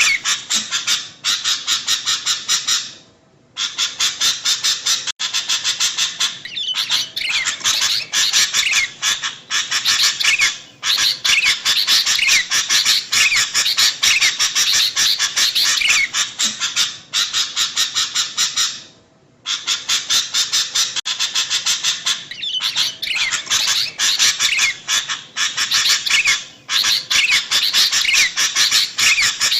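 Sooty-headed bulbuls (kutilang) calling in a dense, rapid chatter of many overlapping chirps. The calling breaks off briefly twice.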